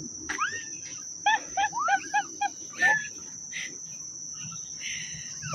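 Rainforest insects keeping up a steady, high-pitched drone. About a second in comes a quick series of short rising-and-falling calls.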